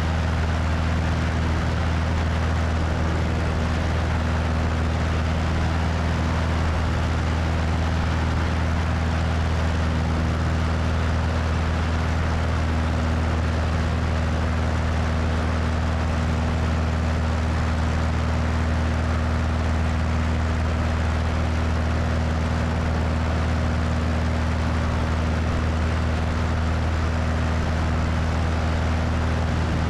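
Cessna 172's piston engine and propeller running steadily in flight, a constant low drone with wind rushing over the wing-mounted microphone.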